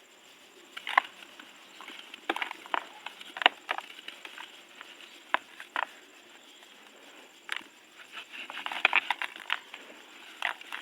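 Dry, dusty, crunchy chunks being crumbled: irregular sharp crackles and crunches in scattered clusters, with short quieter pauses between them.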